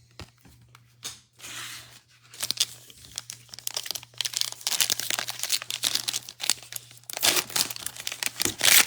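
Plastic trading-card pack wrapper being torn open and crinkled by hand: a few light clicks, then a dense crackling from about two seconds in that grows louder near the end.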